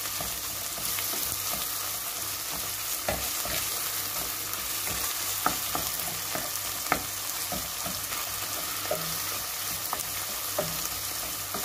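Meat, onion, green chili pepper and tomato paste sizzling in a nonstick pot as they are stirred with a wooden spoon, with scattered light taps and scrapes of the spoon on the pan. The tomato paste is being fried until its raw smell cooks off.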